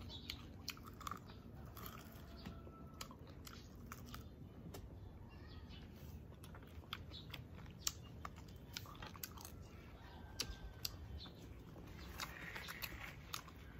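Close-miked chewing of food, with many small, irregular mouth clicks.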